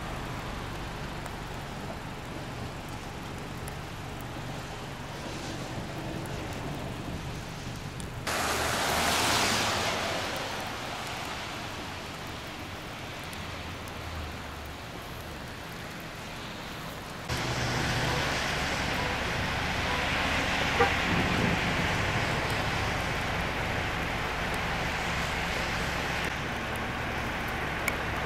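Freezing rain falling outdoors, a steady hiss over the low hum of road traffic, with abrupt changes where separate clips are cut together about 8 and 17 seconds in. About 8 seconds in, a louder hiss swells and fades over a couple of seconds.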